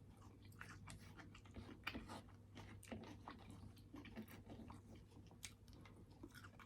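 Faint chewing close to the microphone: irregular soft clicks and small crunches of a mouthful of food being eaten.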